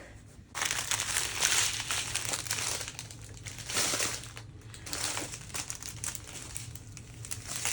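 Plastic packaging crinkling and rustling as it is handled, in uneven spells with a short lull about halfway through.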